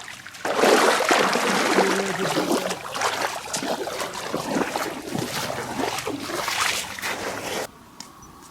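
Water splashing and rushing in a stream, with uneven louder splashes, cutting off abruptly near the end.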